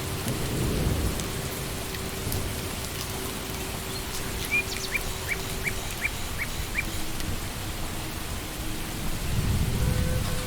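Steady rain falling on forest leaves and ground, with a low rumble of distant thunder near the start and again near the end. In the middle a bird gives a quick run of about seven short, rising chirps.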